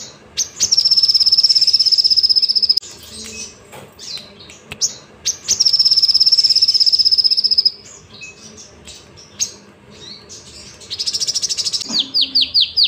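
Crimson sunbird (sogok ontong) singing: two long, high, rapid trills of about two seconds each, separated by short sharp chips, then near the end a quick run of notes that each slide downward.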